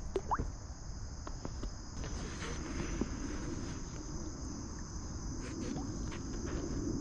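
Steady high-pitched chorus of insects droning without a break, with a low rush and a few small knocks and rustles beneath it.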